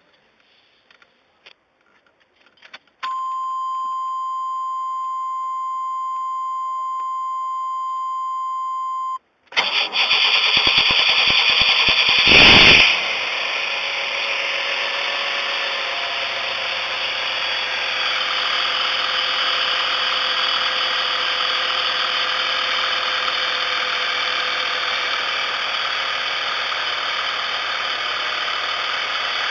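A steady electronic warning tone sounds for about six seconds. Then the 1994 Chevrolet Astro's V6 cranks on the starter for about three seconds, catches with a brief loud rev and settles into a steady idle. It is a hard start on an engine with an intermittent no-start fault, which the owner traced to a failing ignition control module.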